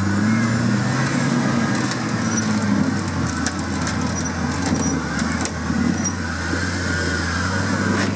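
Off-road competition vehicle's engine running at steady, moderate revs after a brief rise in pitch at the start.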